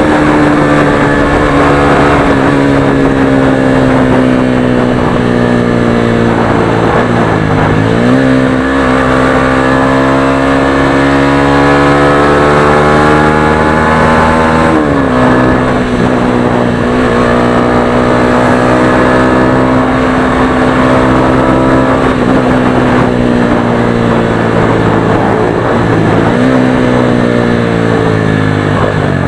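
Motorstar Xplorer Z200S motorcycle engine running under way through its stock exhaust. Its pitch holds or sags slowly, then dips sharply and picks back up three times as the rider works the throttle and gears.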